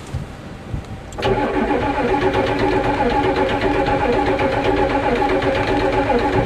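Ford diesel truck engine starting about a second in and then running steadily at an even pitch, after stalling. The owners suspect water in the fuel.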